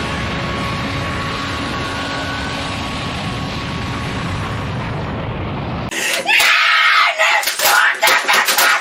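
A steady rumbling noise for about six seconds, then it cuts abruptly to a person screaming and shouting in loud, choppy outbursts.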